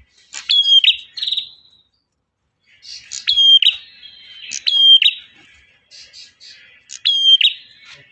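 Male prenjak (prinia) singing: a short phrase of a sharp falling note and a ringing note, repeated four times, over a continuous buzzy chatter that comes in about three seconds in.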